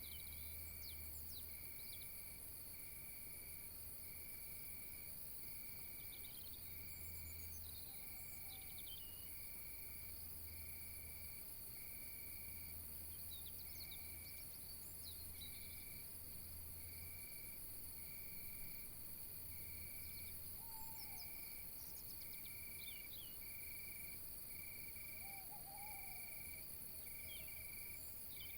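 Insect chorus: a steady high insect drone with a cricket-like chirp pulsing evenly a little more than once a second, and scattered short bird chirps over it.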